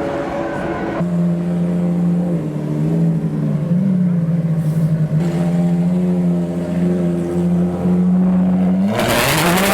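Ferrari FXX K Evo's naturally aspirated V12 running at steady low revs with small throttle wobbles, then revving up sharply near the end.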